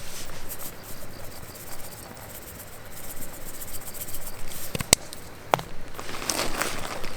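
Insects chirping faintly over a steady outdoor hiss, with a couple of sharp clicks past the middle and some crackling rustle near the end.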